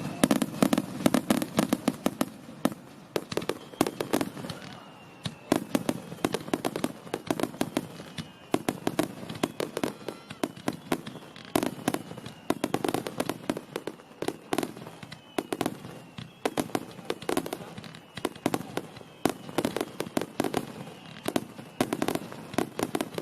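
Fireworks display: dense, rapid crackling and popping of many small bursts, with louder clusters of cracks every second or two.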